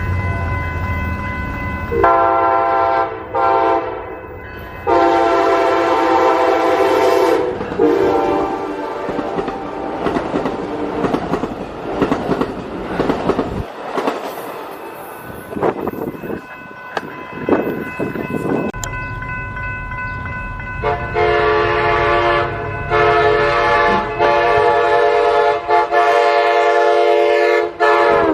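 Passenger train's multi-chime air horn sounding several blasts, then rumble and clatter of the train passing on the rails, then one long sustained horn blast near the end.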